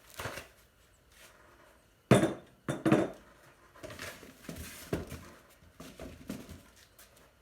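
Clunks and clinks of a small metal melting furnace and its parts being handled and set down, with the loudest knock about two seconds in, two more just before three seconds, and lighter taps after.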